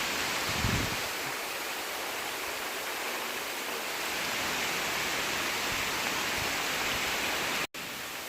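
Steady hiss of rain falling, mixed with the rush of the river and waterfall. There is a soft low thump about a second in, and the sound breaks off for an instant near the end.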